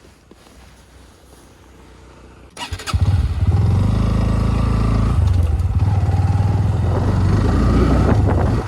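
Bajaj motorcycle engine starting about two and a half seconds in, catching after a few quick clicks, then running steadily and loudly.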